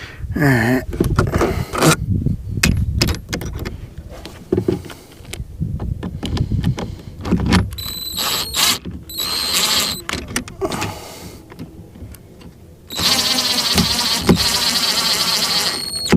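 Clicks and knocks of hands working on hardware, then a high steady electronic tone: two short beeps about two thirds of the way in, and a longer tone of about three seconds near the end.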